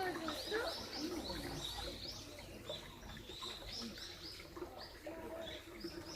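Small birds chirping, many short high notes repeating and overlapping, with a few lower calls among them.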